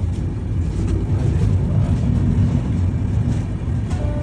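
Steady low rumble of a passenger train running on the track, heard from inside a coach.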